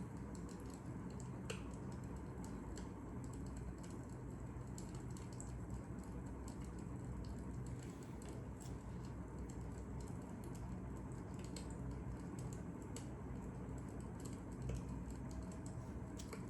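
Fire crackling: irregular small snaps and pops over a steady low rumble.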